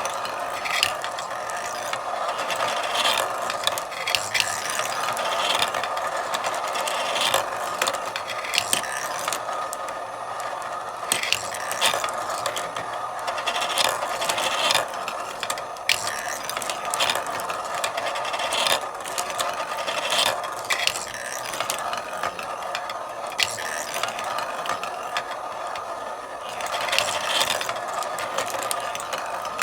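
Marbles rolling continuously along a marble run's tracks, with frequent sharp clicks as they knock against the track and each other.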